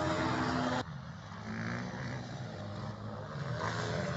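Small petrol engines running. The sound changes abruptly about a second in, and afterwards an engine's pitch rises and falls.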